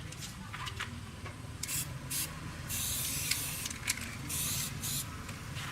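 Several short bursts of hissing spray, one lasting about a second near the middle, over a steady low hum.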